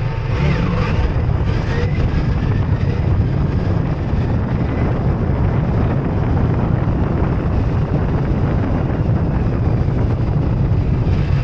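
Ducati Multistrada V4S motorcycle under way, heard through a camera clamped to the bike: a steady engine drone with a heavy rumble and a loud rush of wind.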